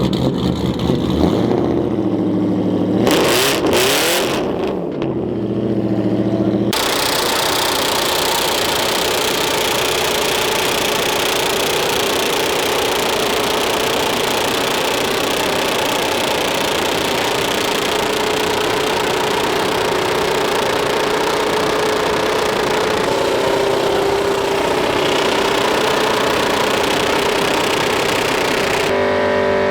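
Truck engine revving hard, pitch rising and falling for the first few seconds during a burnout. It then holds at high revs for over twenty seconds under a dense, steady hiss from the spinning tyres, and stops abruptly near the end.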